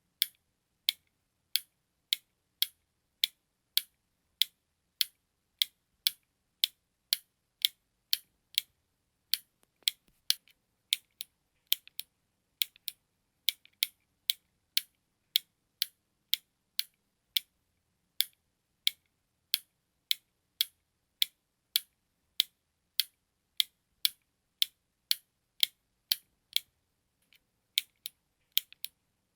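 Button clicking: sharp, high, dry clicks repeating at about two a second, a little uneven in places, with a short pause near the end.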